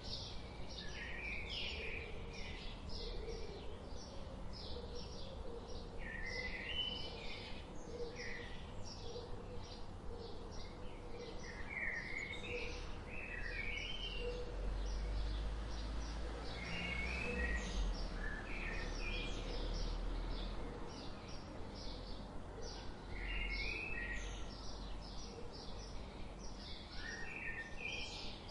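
Birds chirping and singing: a steady run of short, high, rapidly repeated chirps, with warbled lower phrases coming in every few seconds. A low rumble swells up through the middle.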